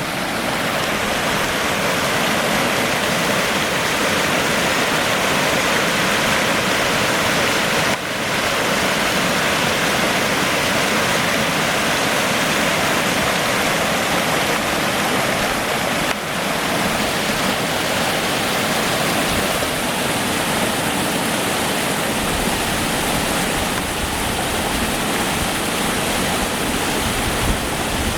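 Waterfall: a loud, steady rush of falling water. A low rumble joins in the last several seconds.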